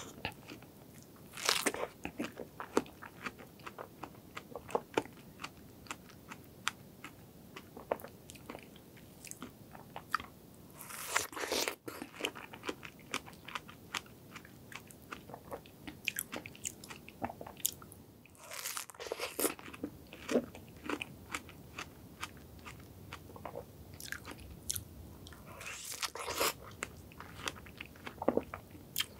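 Close-miked biting and chewing of fresh strawberries dipped in whipped cream: wet, juicy crunches and mouth clicks, with louder bites about four times.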